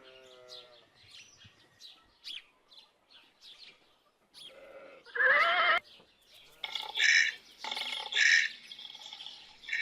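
Animal calls: faint short bird chirps, then a loud wavering call about five seconds in, followed by a series of loud repeated calls about a second apart.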